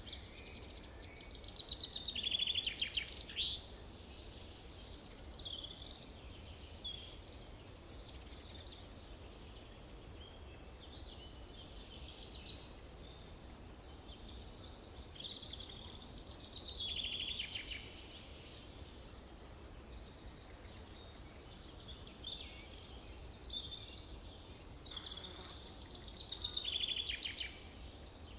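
Forest birdsong: several small birds calling and singing, with loud rapid trills about two seconds in, midway, and near the end. A low steady hum runs underneath.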